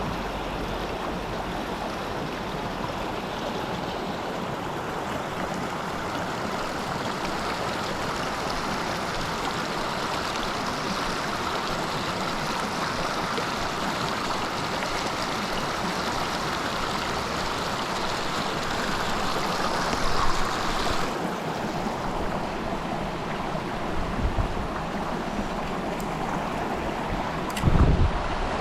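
Mountain stream water rushing steadily over rocks. About two-thirds of the way through the hiss loses some of its upper edge, and a few short low bumps come near the end.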